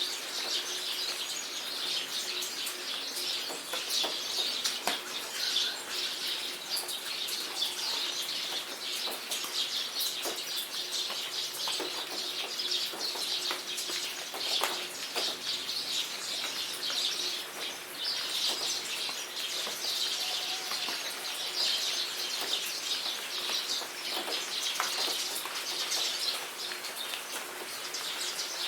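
Steady rain pattering in a jungle, with many close drop ticks, while birds sing and chirp.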